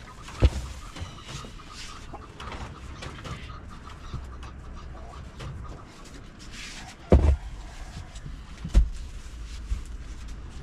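Chickens clucking, a string of short repeated calls, with three dull thumps: one about half a second in and two more in the second half.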